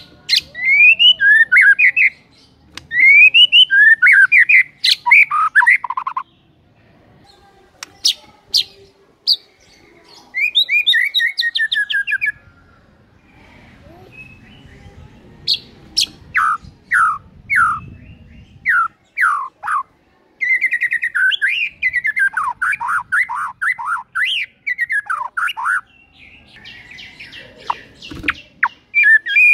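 White-rumped shama singing: loud phrases of fast sweeping whistles and falling notes, about six bursts of song broken by short pauses.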